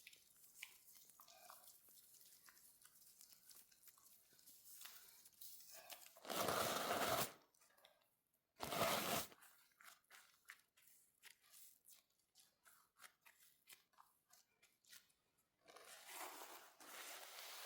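Close-up handling of skincare products: soft clicks and taps, two loud rasping bursts about a second each, a few seconds apart, then softer rustling near the end.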